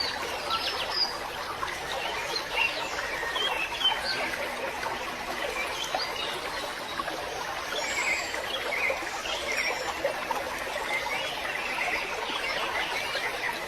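Birds chirping: many short, scattered calls over a steady background hiss of outdoor ambience.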